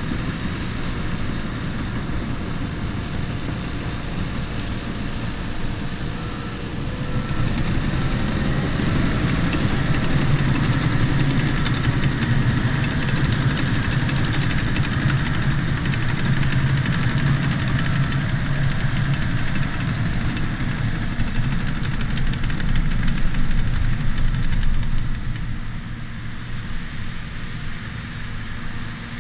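Bulldozer's diesel engine running steadily while stripping topsoil. It gets louder about seven seconds in and drops back near the end.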